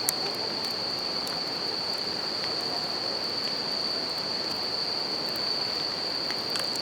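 Bell crickets (suzumushi) singing a continuous high trill over the steady rush of a river, with a wood campfire crackling in scattered pops, one sharp pop just after the start.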